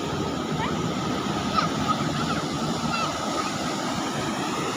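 Ocean surf breaking and washing up a beach, a steady rush of waves.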